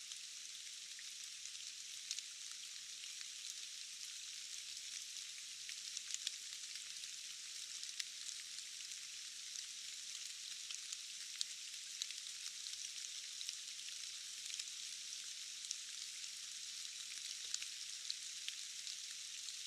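Steady rain: a high, even hiss of falling drops, dotted with frequent sharper ticks of single drops hitting.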